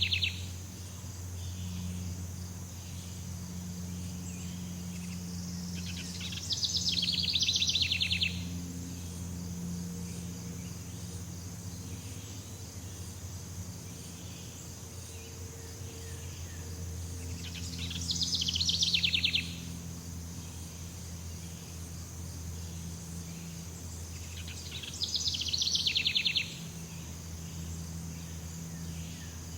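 Jungle ambience: a steady high-pitched insect drone, broken by a loud, rapid trilling call that repeats four times, roughly every seven to eleven seconds, with a faint low hum underneath.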